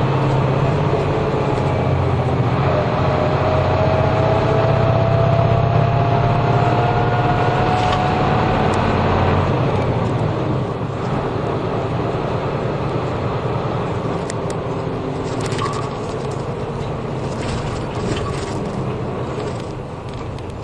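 Route bus engine and drivetrain running, heard from inside the cabin: a low engine hum with a thin whine that rises in pitch for several seconds, then the sound eases off, with scattered small clicks and rattles near the end.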